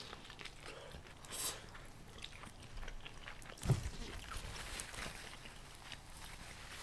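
Faint chewing of a mouthful of grilled corn on the cob, with scattered small mouth clicks and one soft low thump about halfway through.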